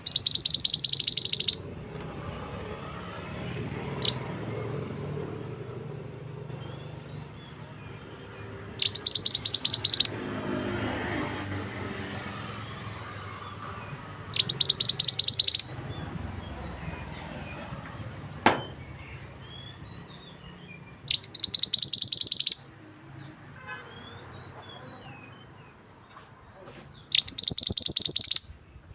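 Small songbird of the kind called mantenan in Indonesia, giving a tight, rapid rolling trill five times, each lasting about one and a half seconds with pauses of several seconds between. The trills are high-pitched and far louder than the faint low hum beneath them.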